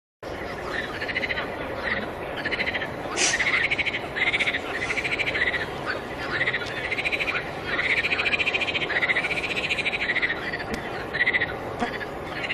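Frogs calling in a chorus, cutting in abruptly: many repeated pulsed calls, each rising and falling in pitch, overlapping one another.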